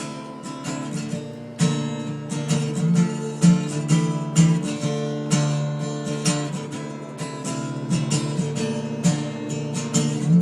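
Acoustic guitar strumming chords in an instrumental break of a song, with no singing. The sound fades briefly at first, and regular strumming picks up again about one and a half seconds in.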